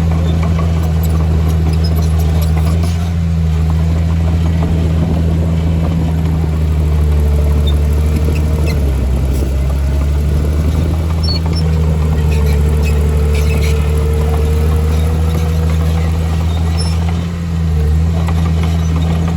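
Heavy construction machine's diesel engine running steadily at working load, with a thin whine rising in twice.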